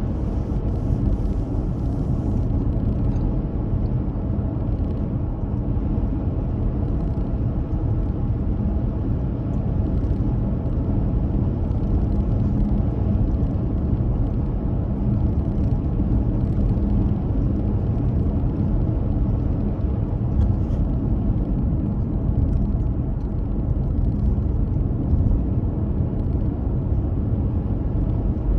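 A car driving at a steady speed: an unbroken low rumble of engine and tyres on the road, with a faint steady hum.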